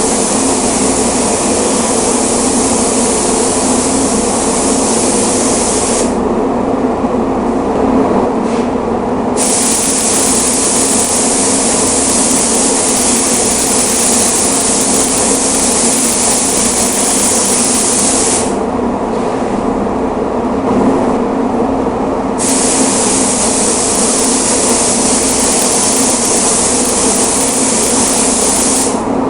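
Paint spray gun hissing in long passes as candy paint is sprayed. The hiss stops twice for about three to four seconds, about six seconds in and again about two-thirds through, then resumes, while a steady machine hum continues underneath.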